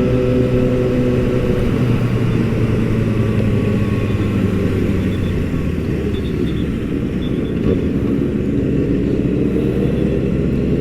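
Motorcycle engine running steadily while being ridden, its pitch holding nearly level with small shifts.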